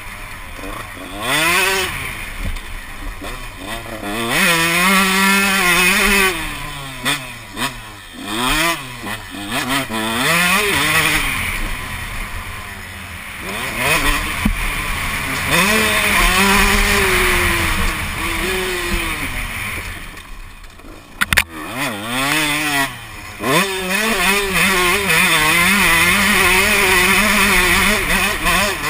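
Motocross bike engine revving up and falling off again and again, rising in pitch under throttle and dropping as the rider rolls off. Around two-thirds of the way through, the engine goes quiet briefly, followed by a sharp knock.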